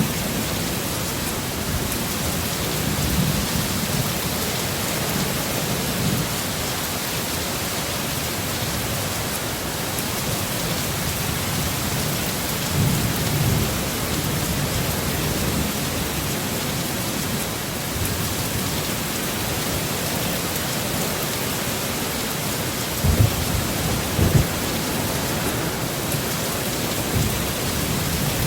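Heavy rain falling steadily in a thunderstorm, with low rumbles of thunder rolling in now and then. Two louder rumbles come close together near the end.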